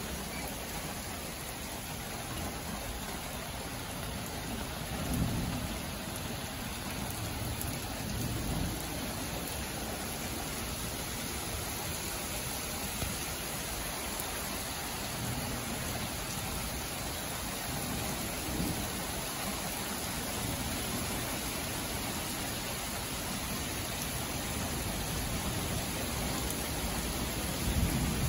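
Steady rain of a thunderstorm, with a few low rumbles of thunder and a louder rumble beginning near the end.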